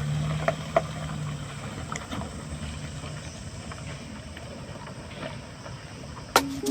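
A vehicle engine running just after being started, a steady low hum that fades over the first few seconds and leaves a low rumble. Plucked-string music comes in near the end.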